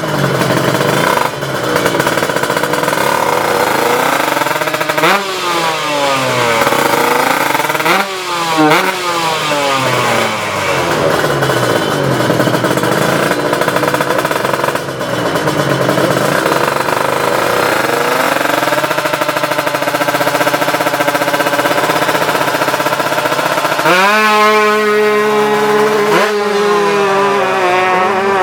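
Two-stroke drag-bike engines, Kawasaki Ninja 155 tune-up machines, revving hard with repeated rises and falls in pitch. About 24 seconds in, one climbs sharply and holds a high steady scream.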